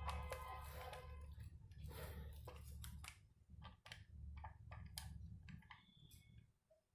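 Scattered light clicks and taps of small parts being handled, over a low hum that drops away about three seconds in.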